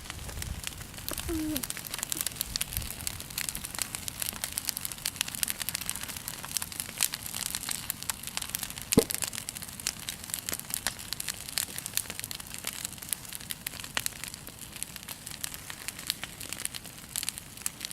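Wood bonfire crackling: a dense run of small irregular snaps and pops, with one sharper pop about nine seconds in.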